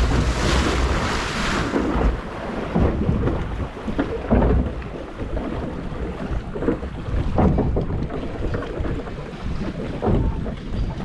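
Log flume boat riding through its water channel: water rushes and splashes in the first two seconds, then the boat rumbles along with a few dull knocks and wind on the microphone.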